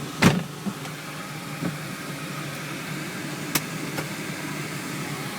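Audi TT quattro's 1.8-litre five-valve turbocharged four-cylinder running steadily. A loud thump comes about a quarter second in and a sharp click at about three and a half seconds, with a few lighter ticks between.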